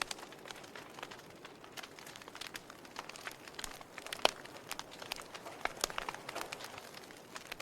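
Wood fire burning in a fireplace, crackling with irregular sharp pops and snaps. One louder pop comes about four seconds in.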